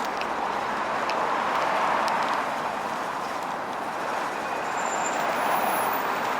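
City bus on the move: a steady, even rushing noise with a few faint ticks, and brief thin high tones near the end.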